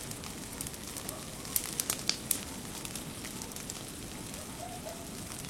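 Bonfire of a garden pile burning: a steady low hiss with scattered sharp crackles and pops, several close together around two seconds in.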